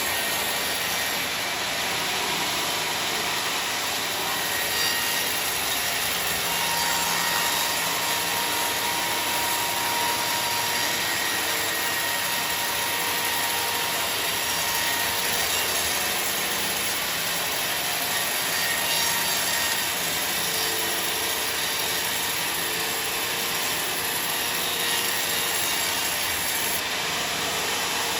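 Sawmill saw running steadily through a large log: one continuous, unbroken cut.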